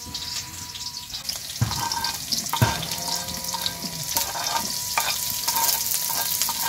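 Mushrooms and chopped chilies and green onions sizzling as they are stir-fried in a wok, a steady hiss broken by a couple of sharp knocks about two seconds in.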